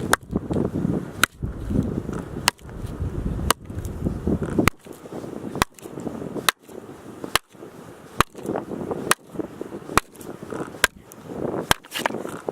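Axe chopping firewood: a dozen or so sharp strikes into wood, about one a second, at a steady pace.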